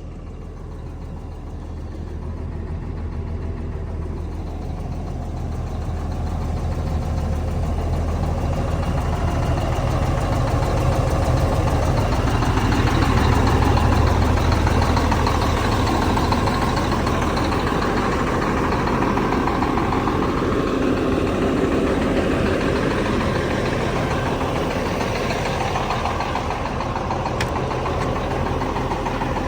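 Cummins M11 inline-six diesel in a Freightliner dump truck idling steadily. It grows louder over the first half, then eases off a little.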